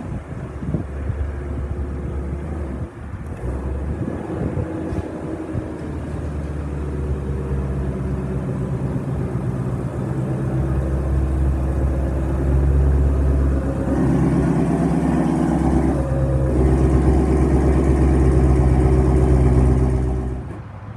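Ford Shelby GT350R's 5.2-litre flat-plane-crank V8 running, a steady low rumble that grows louder through the second half with brief rises in engine speed, then drops away near the end.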